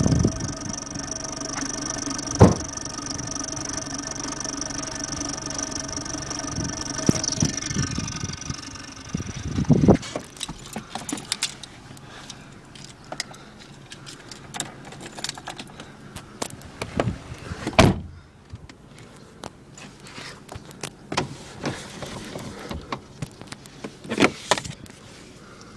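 Exhaust-mounted turbo whistler on a Toyota Corolla whistling a steady high tone over the engine held at steady revs; about eight seconds in the revs fall and the whistle slides down and fades. After that come scattered clicks and knocks.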